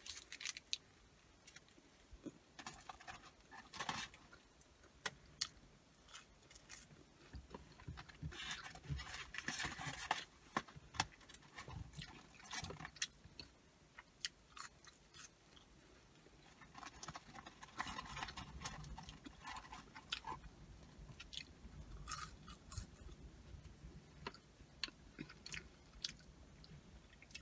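Close-up eating sounds of a person chewing a burger and french fries: soft, irregular chews, mouth clicks and smacks.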